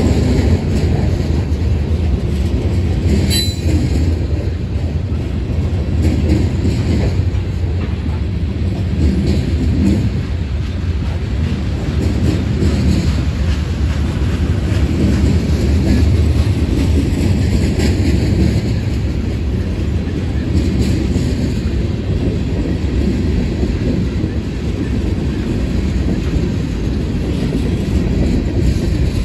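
Union Pacific freight cars rolling past: a steady heavy rumble of steel wheels on rail. A brief high squeal comes about three seconds in.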